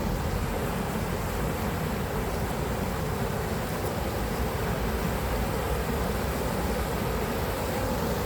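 Steady rushing of an urban stream's water, flowing after rain.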